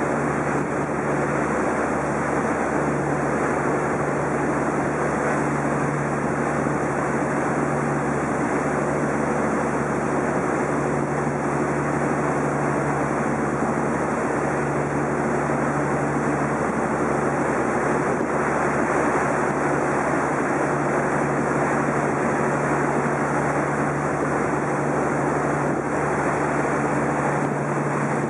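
Small passenger boat's engine droning steadily under way, with wind rushing over the microphone and water washing along the hull.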